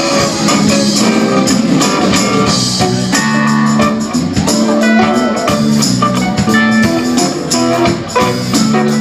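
A live band playing, with guitar over a steady percussive beat.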